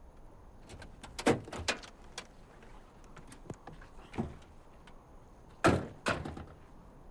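Car doors clunking open and slamming shut: a series of short knocks and thuds, the loudest two close together near the end.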